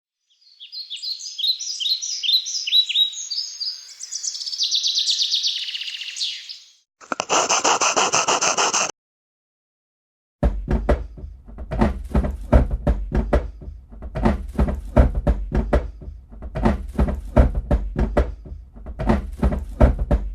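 Quick, high, repeated chirping calls of a rainforest soundscape, then a dense two-second burst of noise, then, from about halfway through, steady back-and-forth rasping strokes of a saw cutting wood, about one a second.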